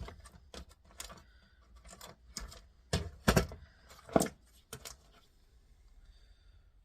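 Irregular sharp clicks and knocks of hand tools against the small metal and plastic parts of a turntable as a little nut is worked out. The loudest knocks come a little past halfway, and they stop about five seconds in.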